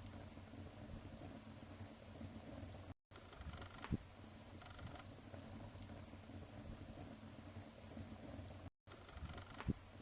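Wood fire burning in a fireplace, crackling softly with a few sharp pops, the loudest about four seconds in and near the end. The sound cuts out briefly twice.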